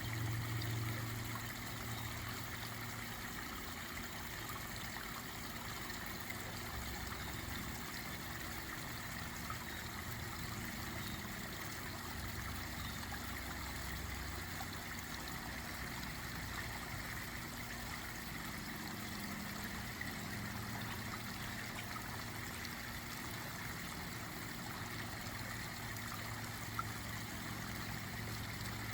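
Water splashing and trickling steadily down a small garden pond waterfall, with a low hum that comes and goes underneath.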